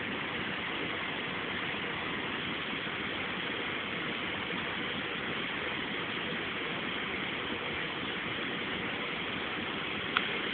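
Campfire burning with a steady hiss and a single sharp crack near the end.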